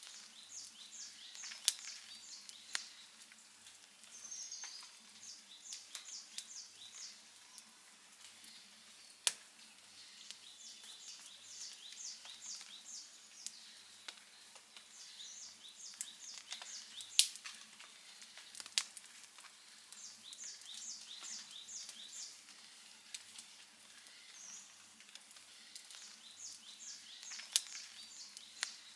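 Campfire crackling, with irregular sharp pops over a soft hiss; a bird sings the same short chirping phrase about every six seconds.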